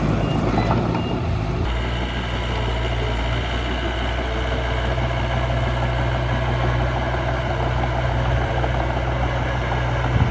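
Engine of a miniature construction machine running steadily, its note shifting once about a second and a half in and then holding even.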